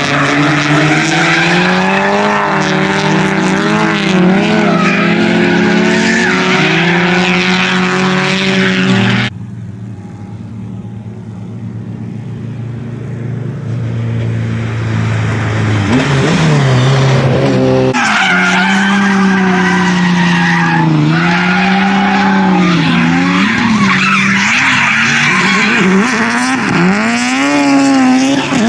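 Drift car engine held at high revs with wavering pitch, over tyre squeal while drifting. The sound drops away abruptly about a third of the way through, builds back up with rising revs, and returns loud with the engine and tyre squeal about two-thirds of the way in.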